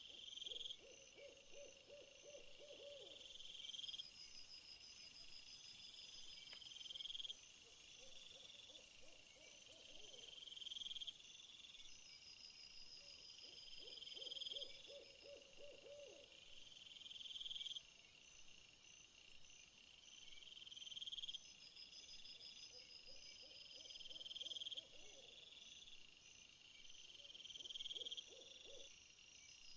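Faint night-time nature ambience. Insects call in a steady high chorus, with a rising buzz that repeats about every three seconds. A low trilling animal call recurs every five seconds or so.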